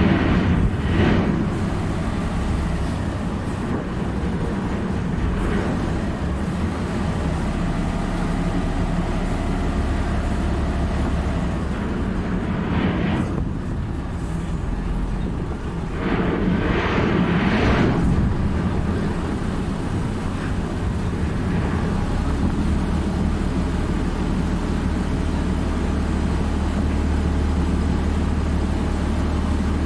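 An engine running steadily with a low, even hum, with two louder rushing swells near the middle.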